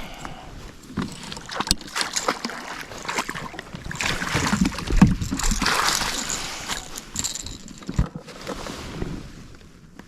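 Water splashing and sloshing against a fishing kayak, with scattered knocks and clunks on the hull, and a denser burst of splashing in the middle.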